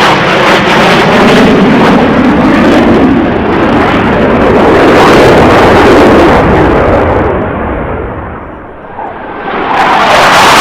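Blue Angels F/A-18 jets making a loud low pass, their engine noise shifting in pitch as they go by. It fades about eight seconds in, then a second loud pass builds near the end.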